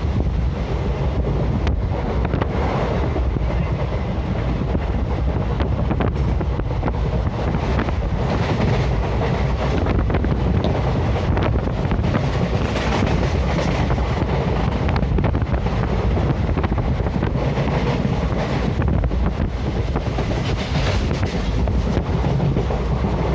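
DEMU diesel-electric passenger train running at speed, a steady low rumble with faint clicks here and there, and wind buffeting the microphone.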